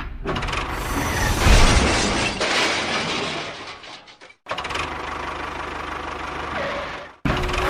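Small motor of a homemade miniature construction machine running, with a loud gritty rush and a thud about a second and a half in. The sound breaks off abruptly about four seconds in and starts again as a steadier machine whir until another abrupt cut near the end.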